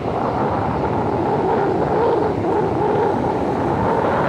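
Steady rushing noise of ocean surf and wind across the microphone on an open beach, with no distinct events.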